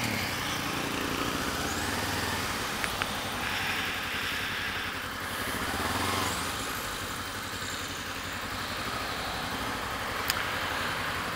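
Kawasaki Ninja 250 motorcycle engine running steadily through a Pipewerx aftermarket exhaust with the baffle fitted.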